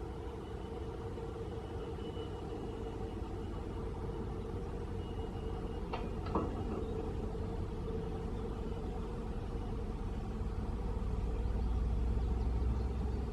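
A vehicle's engine rumbling steadily, growing louder toward the end, with a single sharp click about six seconds in.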